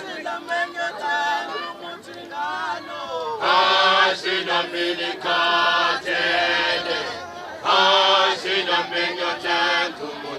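A group of voices singing together in a chant-like style, with two louder, fuller phrases, one about a third of the way in and another near three quarters through.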